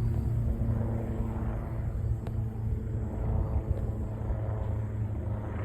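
Helicopter in flight, its rotor and engine giving a steady low rumble with a droning hum over it. A single brief click about two seconds in.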